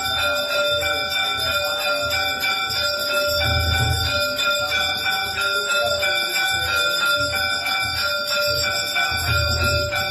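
Temple bells ringing continuously during a Hindu aarti, dense repeated strikes with a steady ringing tone, over a low beat about once a second.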